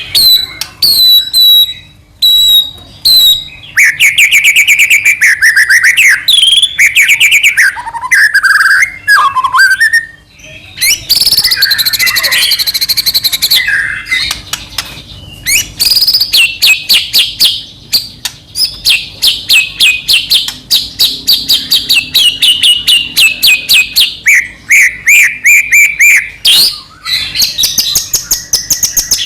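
White-rumped shama (murai batu) singing loudly and without a break in full, energetic song. Varied phrases of rapid clicking and chattering runs are mixed with trills and high whistles that sweep up and down in pitch.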